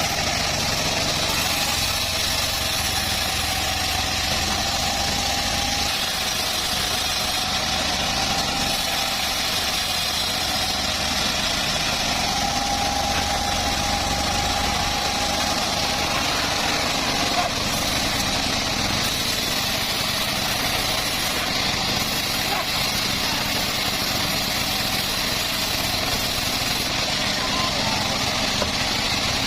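Home-built engine-driven bandsaw mill running steadily: an even mechanical drone with a steady whine, unchanging in level.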